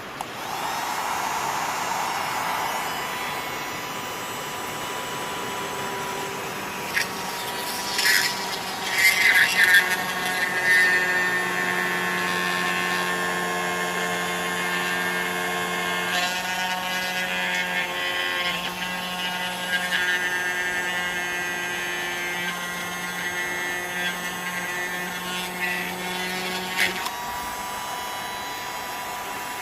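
Homemade drilling machine driven by a 775 DC motor, running with a steady whine. Louder, rougher bursts come about 8 to 11 seconds in, and the pitch shifts around the middle and again near the end.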